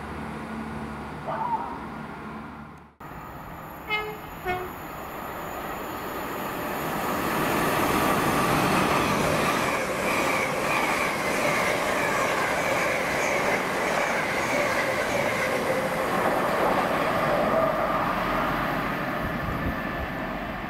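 A train running through the station, its rushing wheel-and-rail noise building over a couple of seconds and then holding loud and steady. Before it, a steady low hum cuts off abruptly about three seconds in. Two short horn toots follow soon after.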